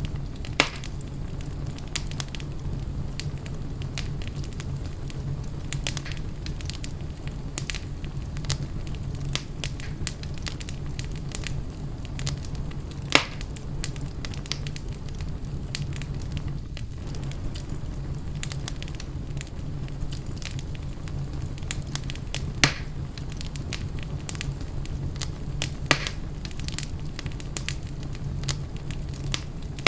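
Wood fire crackling in a fireplace: a steady low rumble with frequent small crackles and four louder pops.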